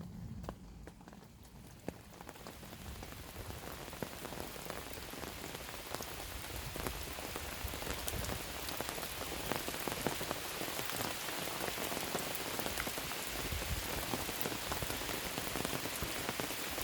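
Rain falling, starting light and growing steadily heavier over the first few seconds, with many individual drops ticking on surfaces.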